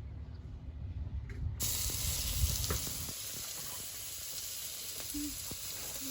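A steady sizzling hiss with a few faint crackles, cutting in abruptly about a second and a half in, over a low rumble that fades out about three seconds in.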